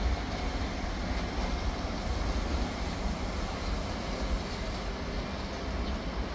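Freight train passing through, a steady rumbling of wheels on the rails.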